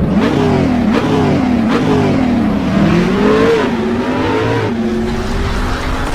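Car engine revving, its pitch climbing and falling several times as the throttle is blipped and shifts pass, with a few sharp clicks or pops among the revs.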